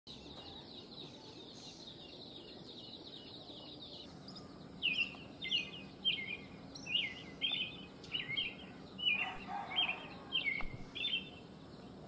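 Birds calling: a fast, high chirping trill for about the first four seconds, then a louder call repeated about twice a second, each note dropping in pitch.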